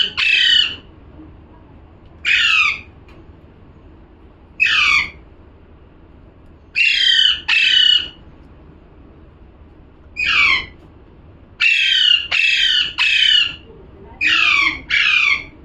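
Pet parrot squawking: about a dozen loud, harsh calls, each sliding down in pitch, given singly or in quick runs of two or three with pauses of a second or two between.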